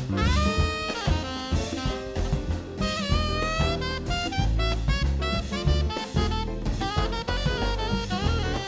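Jazz band playing live: a saxophone plays quick melodic runs over drum kit and low bass notes.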